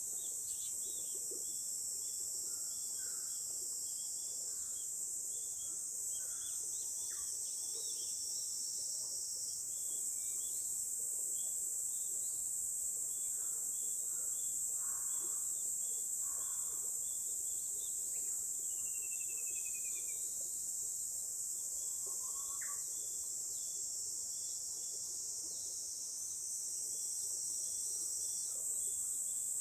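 Steady high-pitched chorus of insects, with scattered whistled notes from a Japanese bush warbler. These include a falling note about two-thirds of the way through and a short rising note a couple of seconds later.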